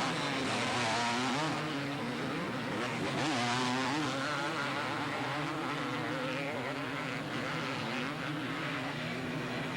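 Two-stroke motocross racing motorcycles running on the track, several engines revving and easing off so their pitch keeps rising and falling.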